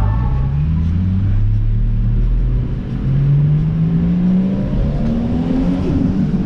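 Car engine accelerating, its pitch climbing steadily as the revs rise.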